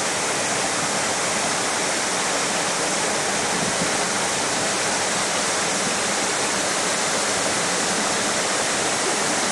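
Mountain waterfall pouring: a steady, dense rush of falling water with no change in level.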